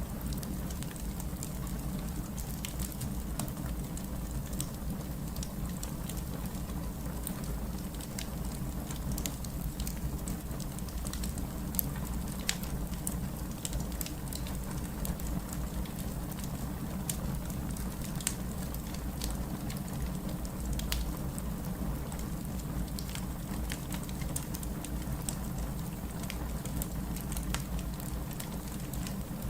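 Wood fire crackling steadily over a low rumble, with many small pops and snaps, a few louder ones.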